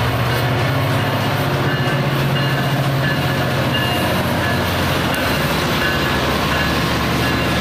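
Metra diesel-hauled commuter train passing close by: the locomotive's engine gives a steady low drone over the noise of the train rolling past.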